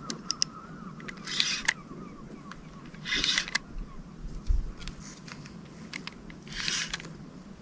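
Fishing reel and rod worked while a hooked fish is played from a kayak: scattered sharp clicks and three short rasping bursts, with a steady low hum underneath.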